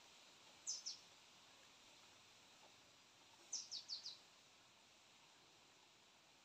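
A small bird's high, quick downward chirps over a faint steady hiss: two together about a second in, then a run of four about three and a half seconds in.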